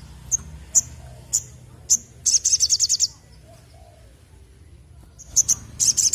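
Little spiderhunter (sogok ontong) calling: single sharp high chips about half a second apart, then a fast trill of rapid high notes lasting under a second; after a pause, two more chips and another fast trill begin near the end.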